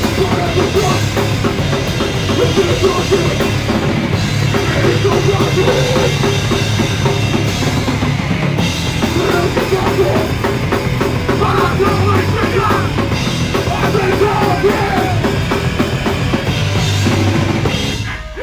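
Live heavy punk rock band playing at full volume, with a pounding drum kit. The recording was made on a phone. The song stops abruptly near the end.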